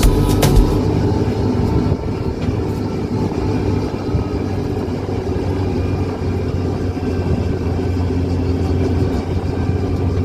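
Steady engine and road noise from a moving vehicle being ridden, a constant low hum, a little quieter after about two seconds.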